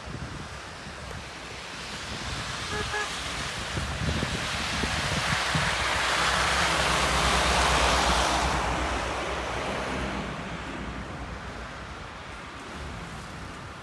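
A vehicle passes along a snow-covered street: engine and tyre noise swell to a peak about halfway through, then fade away.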